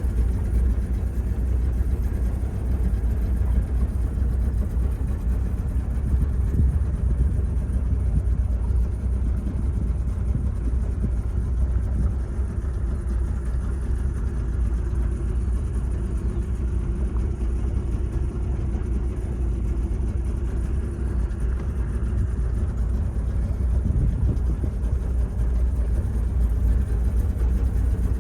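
Boat engine running steadily with a constant low rumble.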